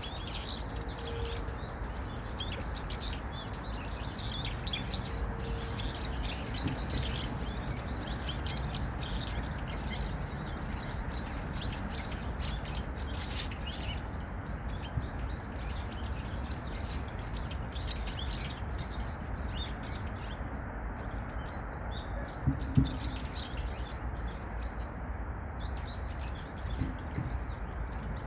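Many small birds chirping and twittering in quick, overlapping calls, busiest in the first half, over a steady low background rumble. A brief knock about three-quarters of the way through is the loudest moment.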